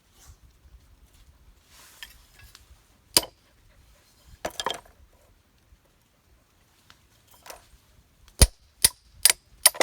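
Hard items such as tableware and utensils being handled: two separate sharp knocks, then a quick run of five loud clacks near the end.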